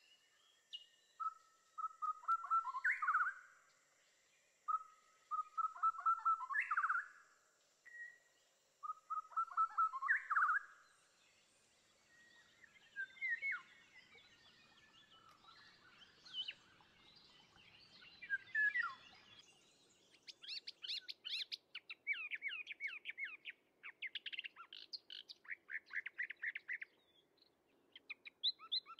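Birds singing: one song phrase repeated three times about four seconds apart, then scattered calls, then a long bout of rapid, high chirping in the last third.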